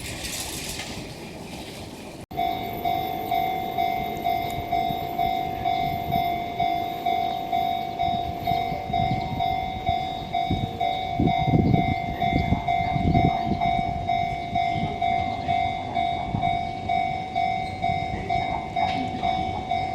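Japanese railway level-crossing warning bell, a steady repeating ding about one and a half times a second, starting suddenly a couple of seconds in. A low rumble swells under it around the middle, as of a train passing.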